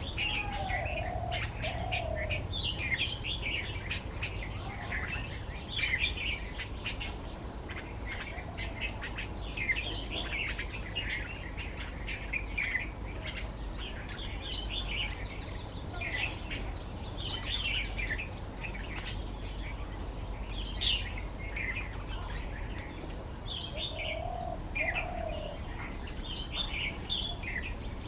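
Red-vented bulbul singing: a run of short, bubbly chirping phrases repeated throughout, with a few lower slurred notes near the start and again about 24 seconds in, over a low steady background rumble.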